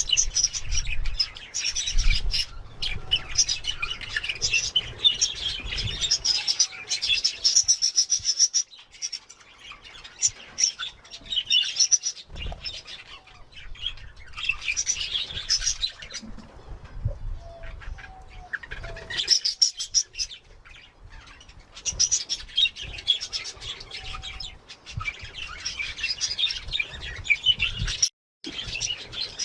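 Budgerigars chattering and chirping in fast, high twittering spells, with short quieter pauses between them and occasional low thumps.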